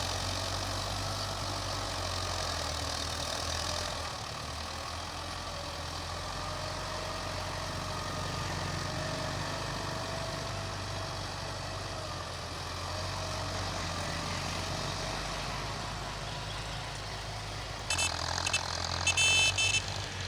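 Belarus tractor's diesel engine running steadily with a low hum. Near the end a few louder, high-pitched sounds break in over it.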